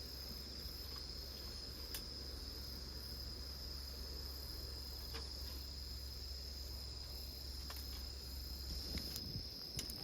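Crickets singing in a steady, unbroken high-pitched trill, over a low steady rumble, with a few faint clicks.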